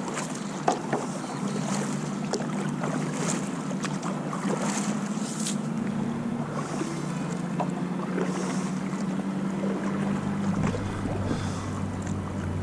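Small boat moving across the water, with water splashing and rushing past the hull every second or so over a steady low hum; a deeper hum joins near the end.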